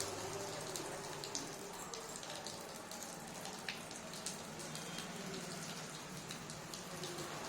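Water pattering and splashing with many small scattered drips, as a pet budgie bathes.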